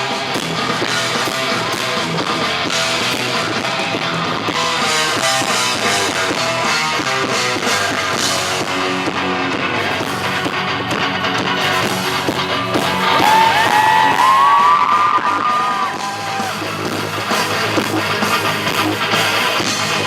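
Live rock band playing an instrumental passage with electric guitar and drums, recorded loud from the audience so the sound is distorted and clipping. A high, bending lead line stands out about two-thirds of the way through, where it is loudest.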